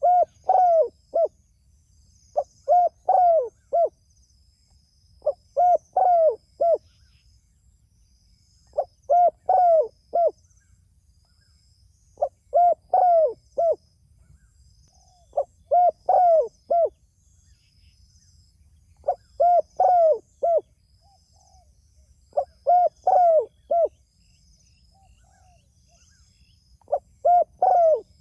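Spotted dove (tekukur) cooing steadily. A phrase of four to five short, arched coos repeats about every three and a half seconds.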